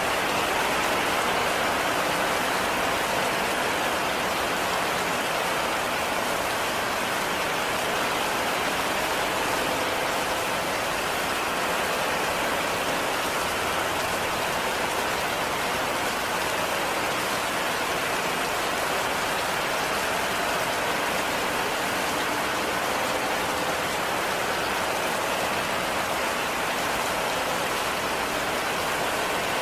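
Heavy rain falling steadily on a cabin roof, an even hiss of drops that holds unchanged throughout.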